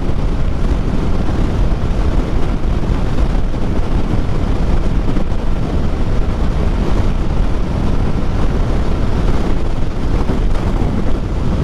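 Steady wind rush buffeting the rider's helmet microphone, over a motorcycle running at highway speed.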